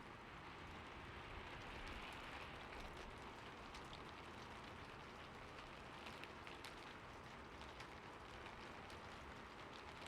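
Heavy rain falling steadily, a dense hiss with many single drops ticking sharply through it.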